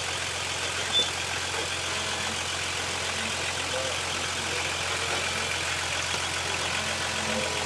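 Nissan Patrol 4x4's engine idling steadily, with a single sharp knock about a second in.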